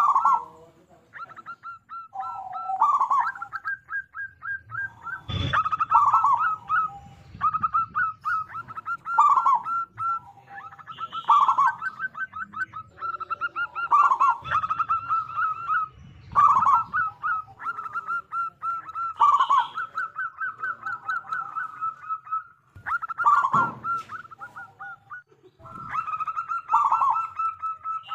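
Zebra dove (perkutut) cooing over and over: quick stuttering runs of short coo notes, each ending in a few deeper, rounder notes, repeated every two to three seconds. A sharp knock sounds about five seconds in.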